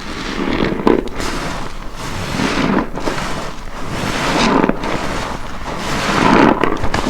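A soapy car wash sponge being squeezed by hand with detergent: wet squelching with crackling foam, in about four squeezes roughly two seconds apart, each cutting off sharply as the grip lets go.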